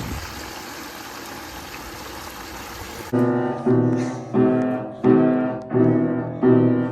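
A steady rushing hiss, then about three seconds in, piano music starts: six evenly spaced chords, each struck and fading, about one every two-thirds of a second.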